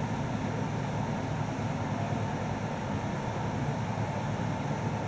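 Steady running noise of an InterCity passenger train heard inside the coach: an even low rumble, with no clicks or changes.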